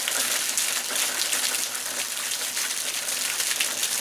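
Heavy downpour, with water gushing and spraying from a broken eavestrough onto a patio: a steady, dense hiss.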